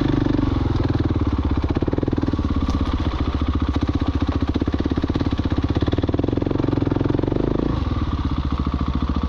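Husqvarna 701 Enduro's single-cylinder four-stroke engine running while riding, with an even rapid pulse; its note changes about eight seconds in.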